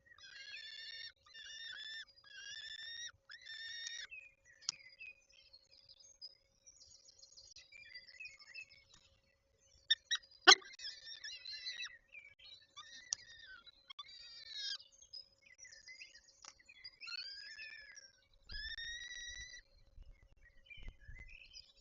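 Peregrine falcons calling at the nest: a run of about six harsh, evenly repeated calls, then scattered shorter calls. A sharp click comes about halfway through.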